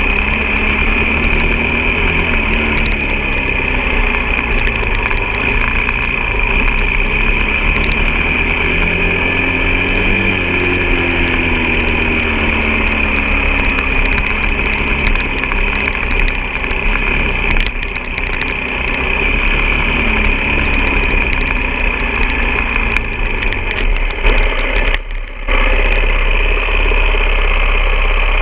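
Off-road motorcycle engine running under a rider, revs rising and falling through the gears, over a constant hiss. About 25 seconds in the sound dips briefly, then settles into a steady low rumble.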